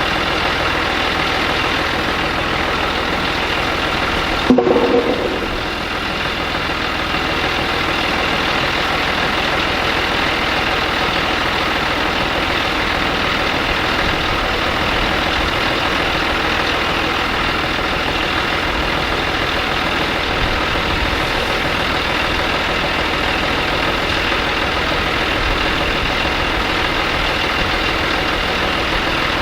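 An engine running steadily at idle, with one sharp knock about four and a half seconds in.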